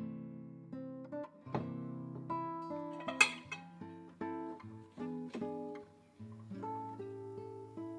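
Background music of a gently plucked acoustic guitar, playing single notes and chords one after another, with a sharp click a little over three seconds in.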